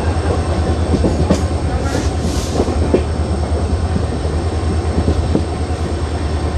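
Express passenger train running, heard on board: a steady low rumble with the wheels clacking over rail joints, and a brief hiss about two seconds in.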